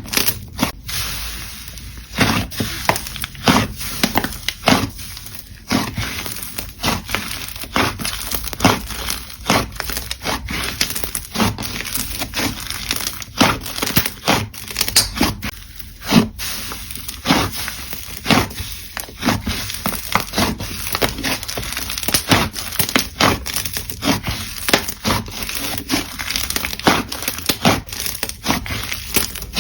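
Slime being pressed and worked by hand, giving a continuous run of irregular crackles and pops.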